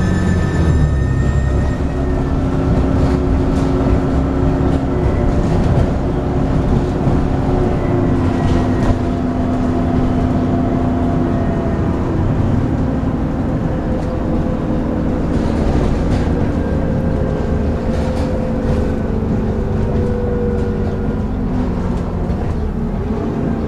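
Dennis Trident 2 double-decker bus running under power with a vacuum-cleaner-like whine ('hoovering'). Several whine tones hold steady and drift slowly in pitch over a continuous engine rumble.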